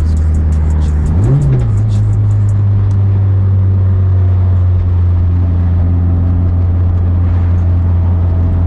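Built, turbocharged 10th-generation Honda Civic Si race car's 1.5-litre four-cylinder engine running steadily while driving, heard from inside the cabin. About a second in, a brief rev rises and falls.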